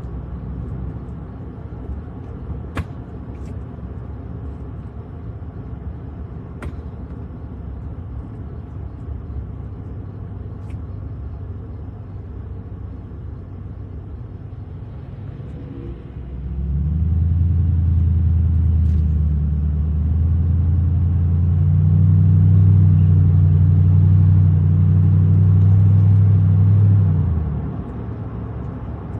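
Low motor-vehicle rumble: a steady low engine drone that swells much louder about halfway through, holds for roughly ten seconds, then drops back, with a few faint clicks.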